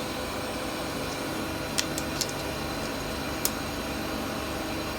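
Steady background hum with a few light metallic clicks from handling the clamps on a CNC machining fixture: three close together about two seconds in, and one more a second and a half later.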